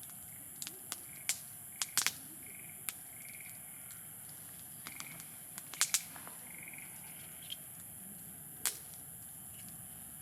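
Wood campfire crackling: sharp, irregular pops over a steady hiss, with a cluster of louder pops about two seconds in and again near six seconds.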